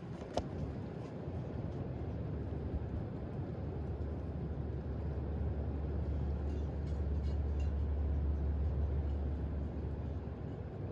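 Wind gusting and rumbling on the microphone, swelling in the middle and easing near the end, with a wind chime tinkling faintly in the background.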